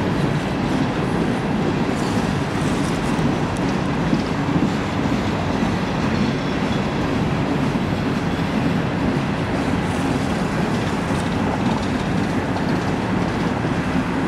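CSX freight train's coal hoppers and gondolas rolling steadily past: a continuous rumble with the clatter of steel wheels on the rails.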